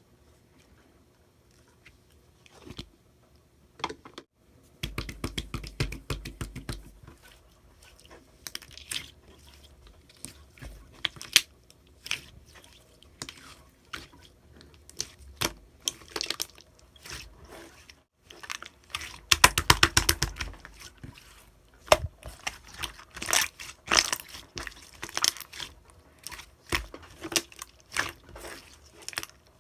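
Slime being squished and stretched by hand, with irregular wet clicks, pops and crackles and two denser squelching stretches.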